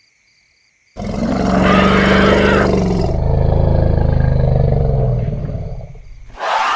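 Elephant giving one long, loud call that starts about a second in. The call is rough and bright for its first two seconds, then lower and fading over the next few seconds. A sharp, high call begins just before the end.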